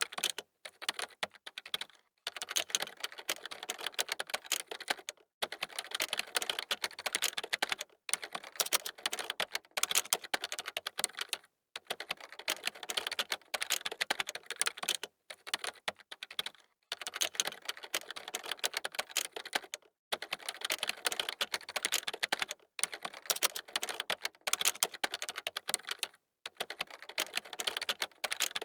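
Fast typing on a computer keyboard: rapid key clicks in runs of a few seconds at a time, each run broken by a short pause.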